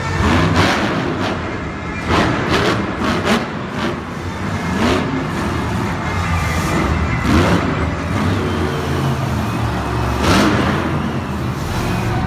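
Monster truck supercharged V8 engines revving repeatedly, the pitch climbing in several runs over a steady low drone.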